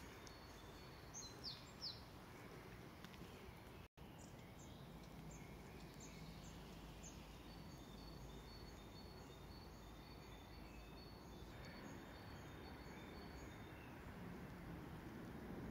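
Faint birdsong over quiet outdoor background noise: a few quick, high, falling chirps about a second in, then a run of short high chirps and thin whistled notes until a few seconds before the end. The sound drops out completely for an instant about four seconds in.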